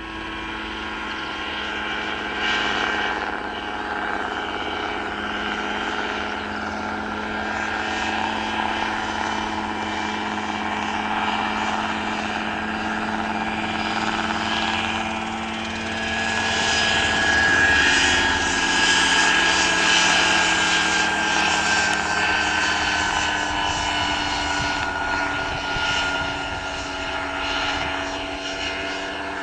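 Mosquito ultralight helicopter running, a steady engine note throughout. It grows louder a little past halfway, while a high tone in it slowly falls in pitch.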